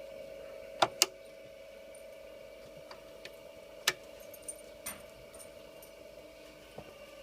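Steady electric hum of a Claes 213 saddler's sewing machine's motor, with a few sharp metallic clicks (two close together about a second in, another near four seconds) and some lighter ticks; no stitching rhythm.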